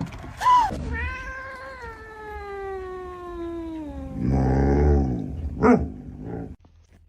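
A pet's vocal calls: a short call, then one long call falling slowly in pitch for about three seconds, a lower rough call, and a brief call near the end, cut off suddenly.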